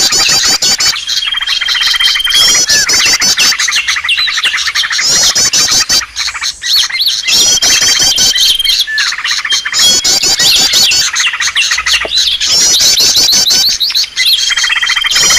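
Bird-lure recording of many small songbirds chirping and trilling at once in a dense, loud chorus. The same mix comes round about every six seconds, each time with a long held high whistle.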